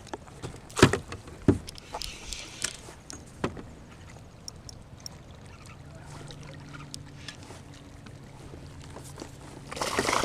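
Knocks and clicks on a kayak's hull from gear being handled aboard, sharpest about a second in and again near the middle, with a faint steady hum in the second half and a short rush of water noise at the very end.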